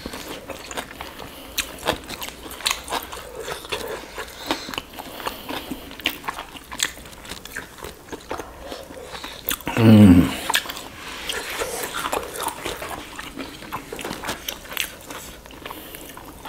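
Close-miked biting and chewing of roast chicken, with many small wet mouth clicks and smacks. About ten seconds in there is a short, loud vocal hum that drops in pitch.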